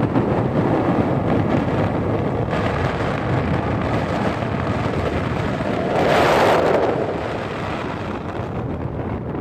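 Wind buffeting the microphone in a steady rushing noise, with a stronger gust about six seconds in.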